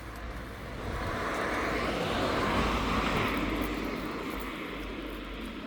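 A vehicle driving past, its noise swelling to its loudest about halfway through and then fading away.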